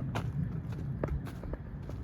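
Footsteps of a person walking on a trail, about two steps a second.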